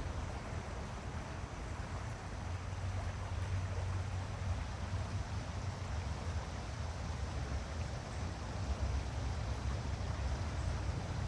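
Running water from a stream, a steady rushing hiss over a constant low rumble.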